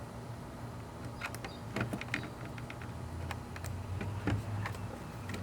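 Scattered small clicks and knocks of side-mirror parts and a wiring connector being handled and fitted together, over a low steady hum.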